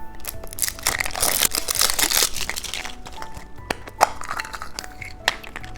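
Plastic candy packaging crinkling and rustling as it is handled and opened, followed by a few sharp clicks, over soft background music.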